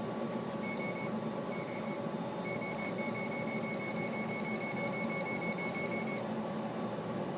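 Non-contact voltage tester beeping in quick pulses. Two short bursts are followed by a steady run of about four or five beeps a second that stops about a second before the end, a sign that it is picking up live voltage in the furnace's power wiring. A steady low hum runs underneath.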